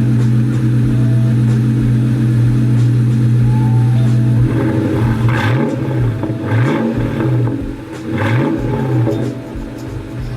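Ford Mustang GT V8 on its stock exhaust with the mufflers deleted, idling steadily, then revved in three quick blips about halfway through before dropping back to idle.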